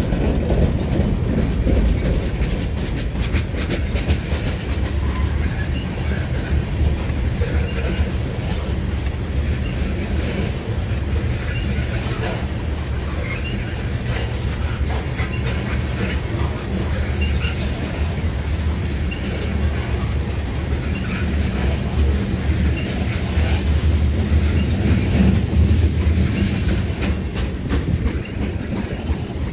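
Canadian National freight train rolling past close by, first covered hoppers and then tank cars. Its wheels make a steady heavy rumble with a constant clickety-clack over the rail joints.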